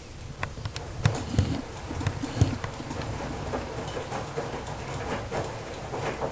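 Washing machine running: a steady low hum from the drum with irregular knocks and thuds, most of them between about one and two and a half seconds in.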